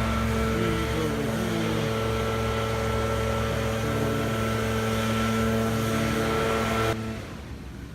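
A steady engine drone holding one constant pitch, which starts abruptly and cuts off suddenly about seven seconds in.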